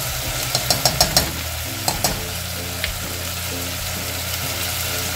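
Chicken and onions frying in a saucepan, a steady sizzle. A quick run of sharp clicks comes about half a second in, with a few more around two seconds: the spoon knocking against the pot as the curry powder goes in.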